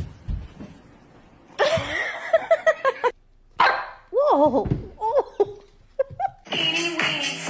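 A dog yipping in a quick run of short, high yelps, then giving a couple of longer wavering whines. Background music starts near the end.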